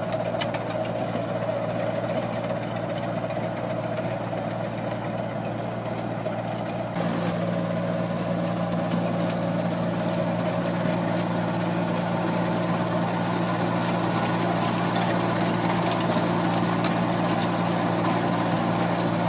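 An engine running steadily at an even speed, with a slight step up in level about seven seconds in.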